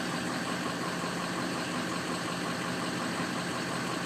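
Ford 6.0L Power Stroke diesel V8 idling just after a cold start, with a light regular tick about five times a second. Several cylinders are not picking up at cold idle, which the owner puts down to a weak FICM at about 45 volts.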